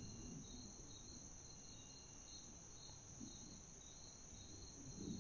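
Faint insect chorus: one steady high trill, with a second insect pulsing just below it about three times a second.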